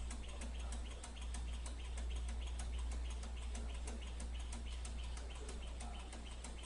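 Small lamina-flow Stirling engine running, its mechanism ticking steadily at about five ticks a second over a low hum.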